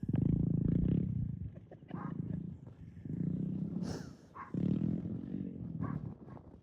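Small dirt bike's engine revving in uneven surges, about four bursts of throttle with dips between as it is ridden off.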